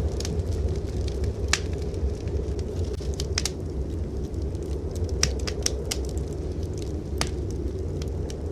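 Wood fire crackling in a fireplace: scattered sharp pops and crackles, several close together near the middle, over a steady low rumble.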